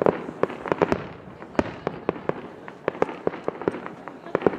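Fireworks exploding overhead: a rapid, irregular series of sharp bangs, the loudest near the start and again near the end.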